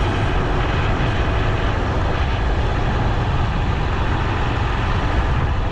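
A vehicle on the move: a steady, even rush of noise with a strong low rumble.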